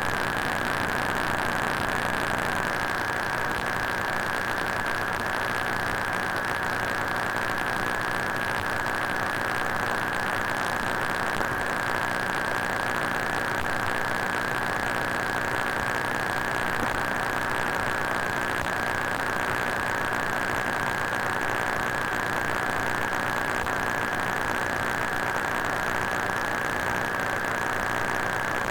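Broken-electronics sound effect: a steady electrical static hiss with a constant high-pitched whine over it, unchanging and looped.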